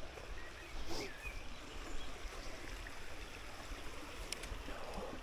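Outdoor ambience: a steady rushing hiss with a short bird chirp about a second in.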